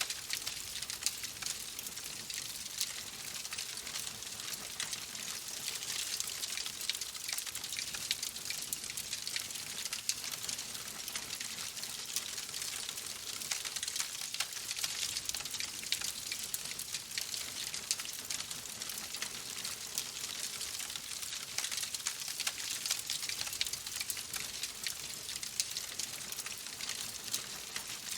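Wood fire crackling in a fireplace: a dense, continuous run of small sharp pops and snaps over a steady hiss, with no pauses.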